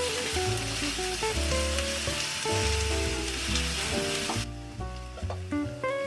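Sliced new onions sizzling in a hot frying pan as they are stirred with wooden chopsticks; the sizzle drops away about four and a half seconds in. Light background music plays under it.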